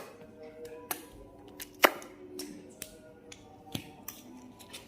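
A handful of sharp, separate clicks or taps, the loudest a little under two seconds in, over faint steady background music.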